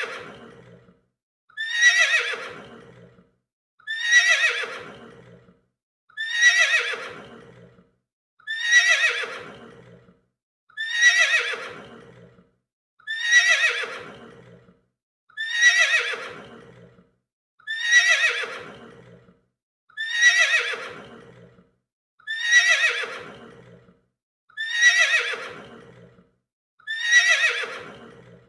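A horse neighing, the same neigh repeated over and over about every two and a half seconds. Each neigh starts high, falls in pitch and fades out.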